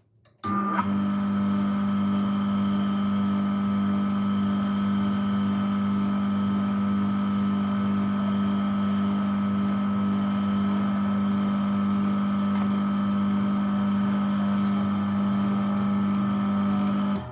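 Small electric motor running at a steady, constant speed with a strong hum. It switches on about half a second in and cuts off near the end.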